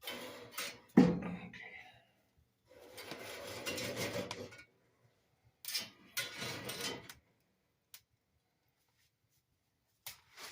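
Handling sounds at a wood-burning fireplace: a sharp knock about a second in, then bouts of rubbing and scraping with pauses between and a single click near the middle.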